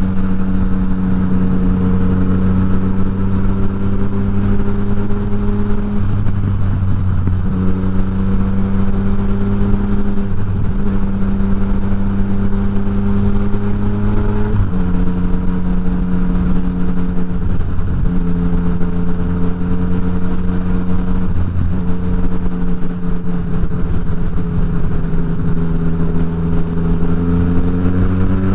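Yamaha MT-09's three-cylinder engine running through an Akrapovič exhaust with the dB killer removed, held at a steady pitch with brief dips and small shifts in pitch every few seconds.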